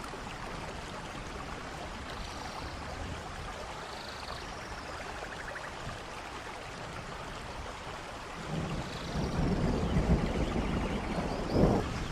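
Steady rush of a waterfall with falling rain. About eight seconds in, a louder low rumble comes up for several seconds, peaking sharply near the end.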